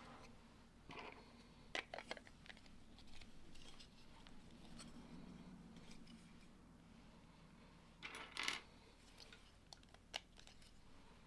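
Faint, sparse clicks and light rattles of plastic Lego pieces being handled and pressed together, with a small cluster of clicks near the end.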